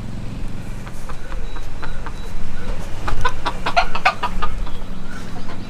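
Bantam chickens clucking, a quick run of short clucks in the second half.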